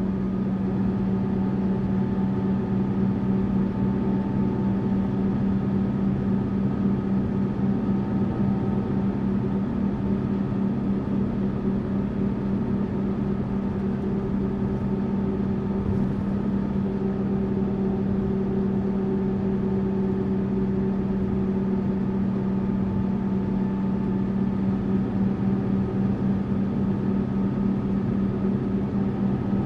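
Tourist bus engine running steadily, a low even hum with a few faint higher tones held over it, and no change in pace.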